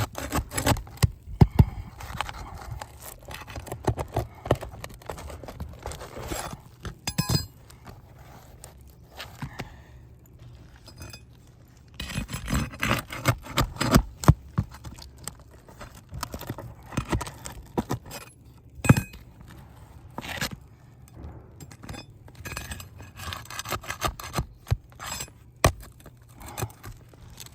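Roofing nails being pried out of asphalt shingles with a metal tool: irregular scraping with sharp metallic clicks and clinks, busiest about halfway through.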